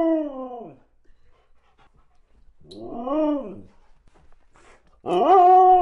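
An animal calling: three drawn-out pitched cries, each rising and then falling in pitch, about a second long and a couple of seconds apart, the last still sounding at the end.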